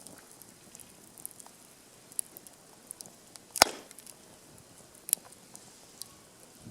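Wood fire crackling, with scattered small ticks and a loud sharp pop a little past halfway, then a smaller one about a second and a half later.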